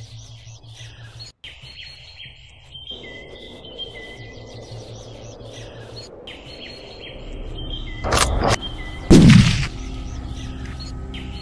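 Small birds chirping and twittering in short repeated calls. Near the end, two loud noises about a second apart cut across them, each sliding down in pitch.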